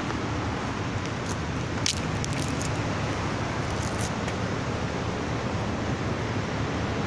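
Steady outdoor background noise with the low rumble of distant road traffic, with a few short clicks about two seconds in and again about four seconds in.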